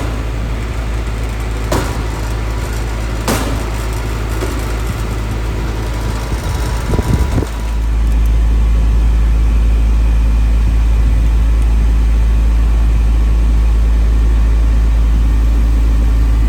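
Air-conditioning unit running with a steady low hum, with a few light knocks in the first few seconds; about seven and a half seconds in the hum gets louder and holds steady.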